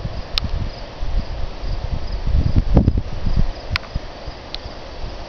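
Crickets chirping steadily under gusts of wind buffeting the microphone with a low rumble, and a few sharp clicks.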